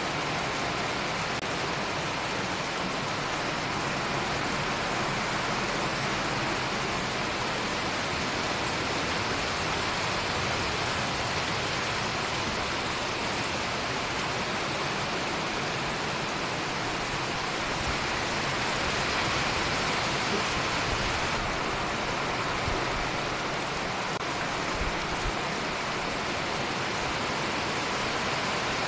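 Steady rain falling, an even hiss that holds at one level throughout, with a few low bumps in the second half.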